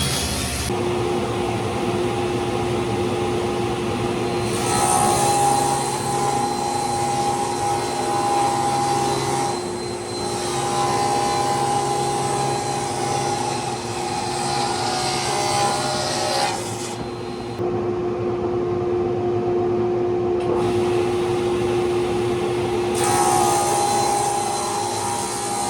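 An electric power tool running steadily with a humming whine while it works wood. The sound comes in several stretches that change abruptly every few seconds.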